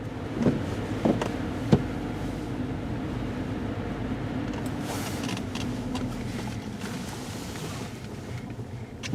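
Car running down the road, heard from inside the cabin: a steady engine and road hum, with three sharp knocks in the first two seconds.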